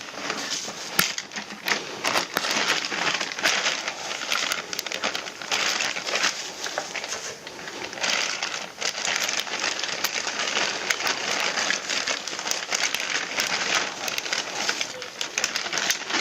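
Continuous crinkling and rustling handling noise, uneven in loudness, with many small sharp clicks scattered through it.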